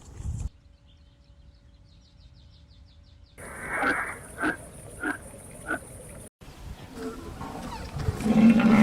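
Animal calls in several short clips cut together: a drawn-out call followed by three short calls about half a second apart, then a loud low call near the end.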